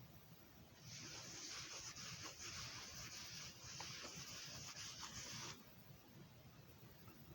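Steady hissing rub starting about a second in and cutting off sharply after roughly four and a half seconds, with a few faint ticks in it: a disc's surface being rubbed, as in resurfacing on a JFJ Easy Pro disc repair machine.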